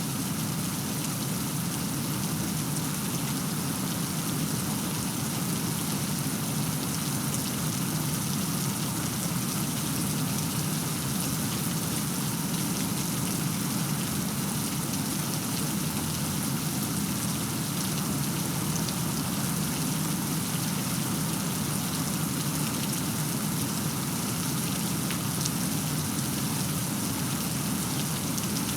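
Steady rain falling, an even hiss of many drops with no let-up and no thunder.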